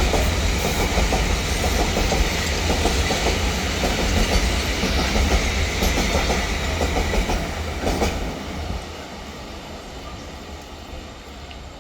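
Double-stack container freight wagons rolling along the rails, wheels clattering over the joints with a heavy rumble. The sound drops off sharply about eight seconds in, leaving a fainter rumble.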